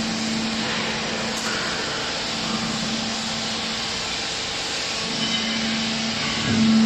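Hydraulic used-clothing baler running, its motor and pump giving a steady hum over a broad hiss, getting louder near the end.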